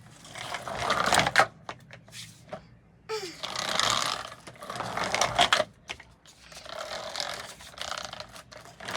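A child making toy-tractor engine noises with the mouth: four breathy, rasping bursts of a second or two each, with short gaps between them.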